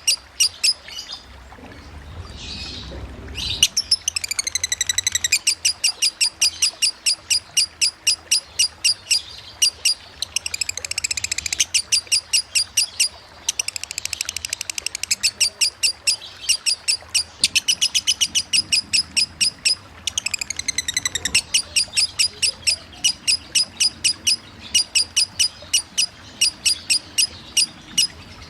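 Lovebird singing its long chattering 'ngekek' song, as a 'konslet' lovebird does: fast, high-pitched chirps repeated several times a second with a few falling sweeps. The song runs nearly unbroken, with a short lull early on and brief breaks about halfway through.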